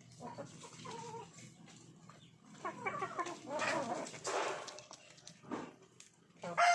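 Farmyard animal calls, with a rooster starting a loud crow near the end.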